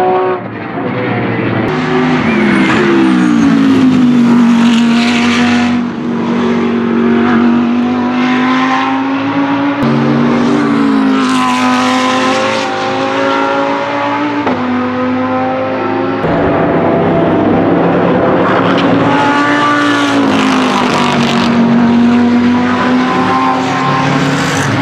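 Lamborghini Huracan GT3 Evo race car's naturally aspirated V10 running hard on track. Its pitch drops and climbs several times over the stretch, falling sharply near the start and again around the middle, then steadying and rising near the end as it goes through the gears.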